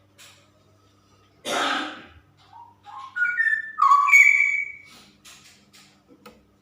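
Female straw-headed bulbul calling: a string of short whistled notes climbing in pitch that ends in a loud, rich whistle about four seconds in. A brief harsh, noisy burst comes about a second and a half in.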